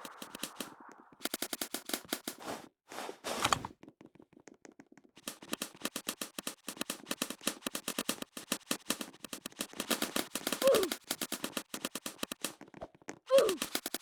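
Airsoft guns firing in rapid full-auto strings of sharp clicks, about a dozen shots a second, in two long bursts. Two short falling tones cut in near the end.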